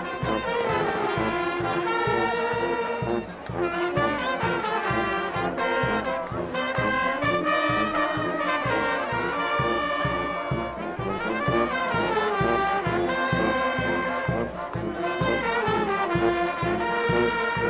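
Brass band music, with trumpets and trombones playing a melody over a steady beat.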